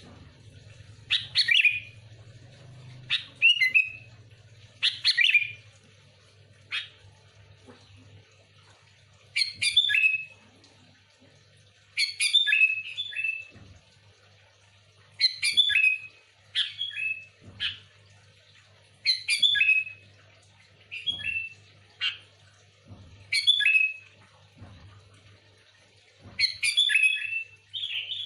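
Sooty-headed bulbul (kutilang) calling vigorously: short phrases of a few quick chirpy notes, repeated every one to two seconds. A faint low hum runs underneath.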